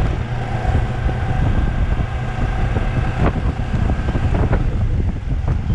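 Wind buffeting the microphone over a running Suzuki V-Strom DL250 motorcycle, with a few faint short sharp sounds about three and four and a half seconds in.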